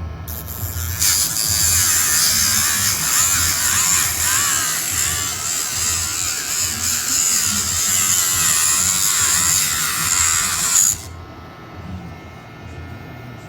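YABIFE electric pet nail grinder running and grinding a dog's nails, a high-pitched whine and grinding that stops suddenly near the end, over a low rumble.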